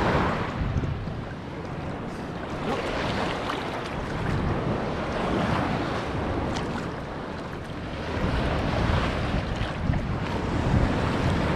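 Ocean surf washing onto a beach, swelling and easing every few seconds, with strong wind buffeting the microphone in a low rumble.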